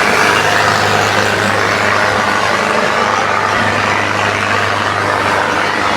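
Diesel tractor engines running loud and steady, with a constant low hum.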